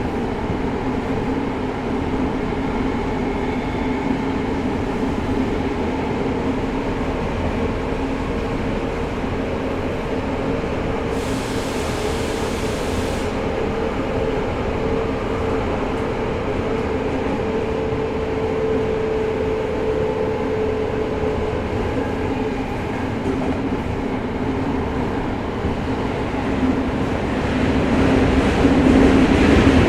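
Tokyo Metro 05 series subway car, with Mitsubishi IGBT inverter drive, heard from inside: a steady running rumble with a humming tone, a brief hiss about 11 seconds in, and the noise growing louder near the end.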